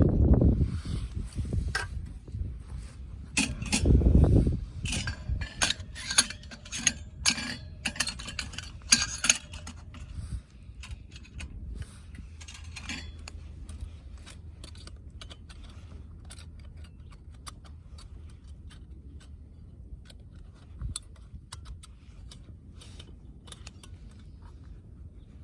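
Wind buffeting the microphone at the start and again about four seconds in, with light metallic clinking and rattling over the first dozen seconds or so, settling into a steady low wind rumble.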